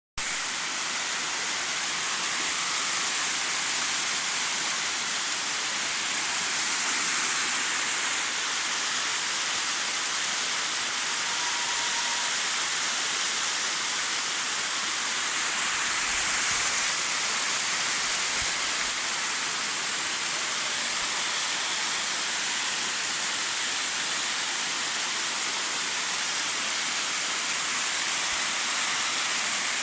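Waterfall: water falling and splashing with a steady, even rush that holds the same level throughout.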